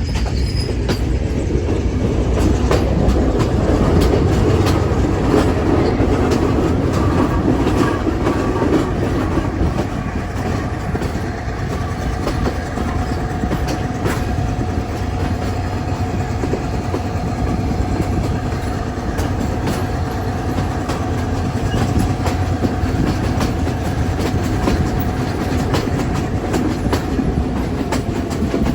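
Train running along the track, heard from on board: a steady rumble with wheels clicking over the rail joints, and a faint steady whine joining in after several seconds.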